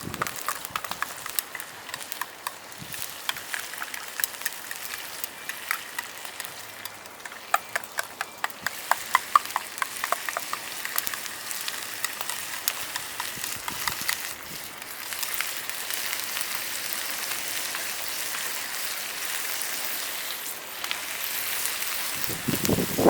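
Wood fire and food cooking over it: a run of sharp crackles and clicks, thickest in the first half, giving way to a steadier sizzling hiss in the second half.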